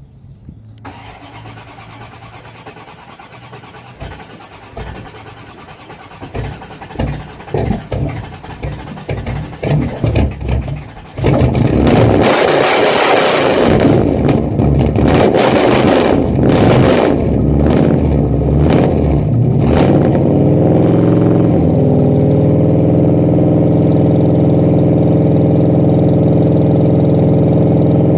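Corvette engine being cold-started for the spring: the starter cranks in uneven pulses for about eleven seconds before the engine catches. It revs and flares for several seconds, then settles into a steady idle.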